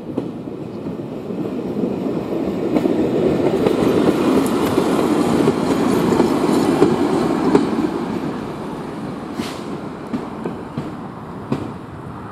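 Passenger train passing over a level crossing, its wheels clattering on the rails. The noise builds over the first couple of seconds, is loudest in the middle, and fades as the last carriage goes by, with a few sharp clicks in the fading part.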